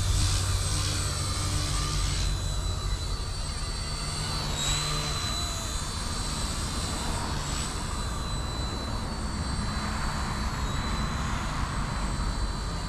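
Eachine E160 micro RC helicopter in flight: a steady high-pitched whine from its electric motors and spinning rotors, the pitch dipping briefly a few times as it manoeuvres.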